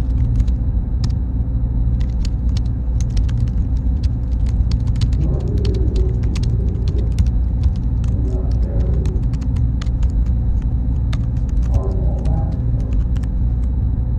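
Steady low rumble of server-room machinery and cooling fans, with frequent small clicks and ticks and a faint high steady whine.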